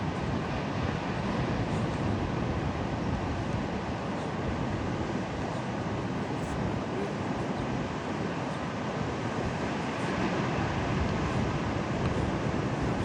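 Rough, stormy sea: surf breaking and wind, heard as a steady rushing noise with wind buffeting the microphone.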